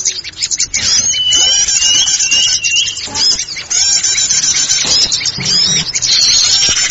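Dense chorus of small forest birds chirping and twittering, with many quick calls overlapping. A short run of rising whistled notes comes between about one and three seconds in. This is a bird-lure call recording meant to draw small birds in.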